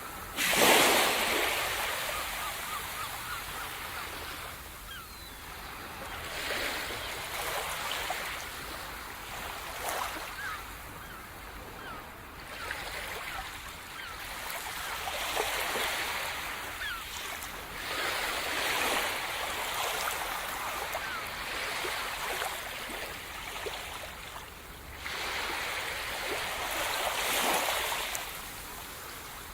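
Sea surf: waves breaking and washing in one after another every few seconds, the loudest just after the start.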